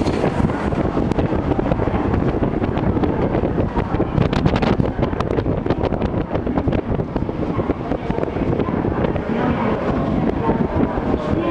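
N700A Shinkansen train pulling out of the platform, a steady rumble of the cars rolling past with wind buffeting the microphone.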